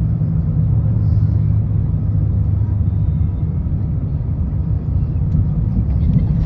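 Steady low rumble of cabin noise inside an Airbus A350-1000 airliner.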